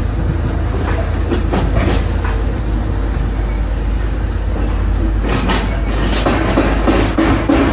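Construction site noise: a steady, heavy low machinery rumble with irregular knocks and bangs, coming thicker in the last few seconds.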